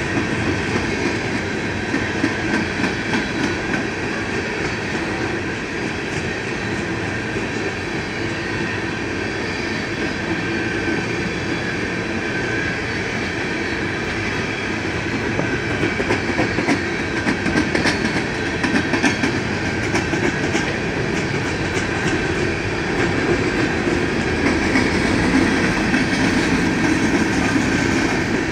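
A long BNSF coal train rolling steadily past: steel wheels of the coal cars clattering over the rails in a continuous rumble, with a steady high squeal running over it. The sound grows slightly louder near the end.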